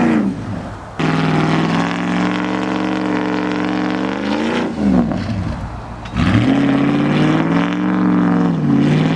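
Pickup truck engine revved hard and held at high revs, as the truck tries to drive out through deep snow. The revs drop off briefly twice, about a second in and again past the middle, and climb back each time.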